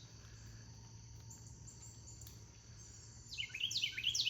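A songbird singing a run of quick down-slurred notes, about four a second, beginning a little past three seconds in. Under it, a steady low hum and a faint steady high insect drone.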